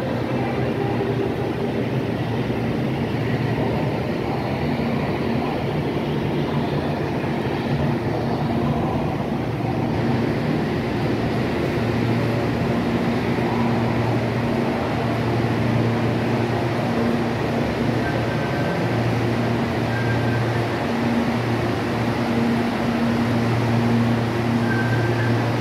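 CPTM electric multiple-unit commuter train moving past along the platform: steady running and wheel noise with a low hum, and a faint high whine coming in during the last third.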